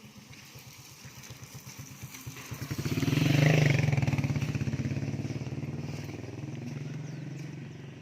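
Motorcycle passing by, its engine growing louder to a peak about three and a half seconds in, then fading slowly as it moves away.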